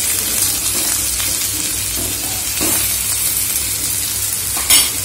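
Chopped okra sizzling in hot oil in a kadai while a spoon stirs it, scraping across the pan, with a louder knock near the end.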